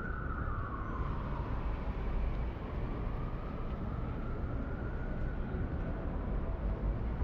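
Steady city traffic noise on a rainy street, with an emergency vehicle's siren wailing through it. The siren's pitch falls in the first second, then slowly rises and holds before fading.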